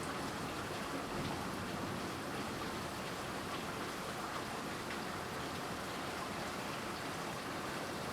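Heavy thunderstorm rain falling as a steady, even hiss.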